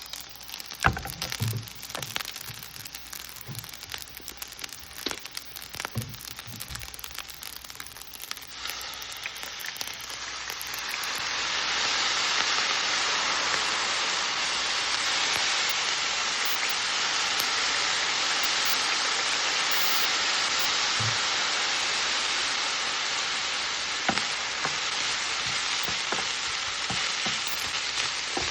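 Leftover rice frying in a hot pan: faint crackling with a few sharp clicks, then about ten seconds in a loud, steady sizzle swells up as the liquid seasonings heat in the pan.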